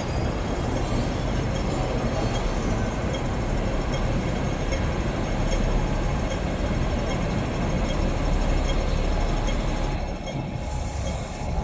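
Steady low rumble of a large vehicle running close by, with faint thin high tones above it and a short hiss near the end.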